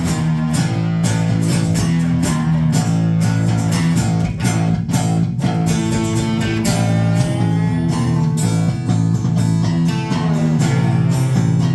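Live rock band playing an instrumental passage: strummed guitars over sustained low bass notes, with an even percussion beat.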